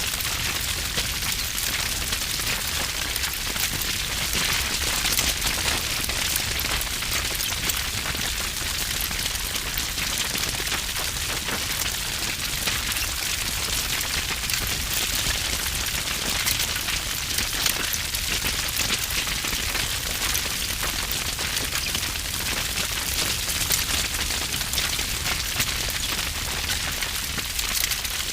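Wood fire burning with heavy crackling: a dense, continuous run of sharp pops and snaps over a low rumble of flame.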